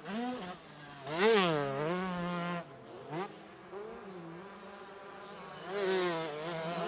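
125cc two-stroke motocross bikes revving: a buzzing engine note that swoops up and down sharply about a second in, runs steadier for a while, then climbs again near the end.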